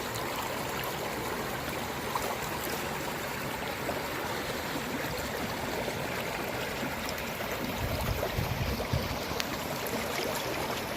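Water of a small stream flowing steadily, an even rushing trickle, with a low rumble swelling briefly about eight seconds in.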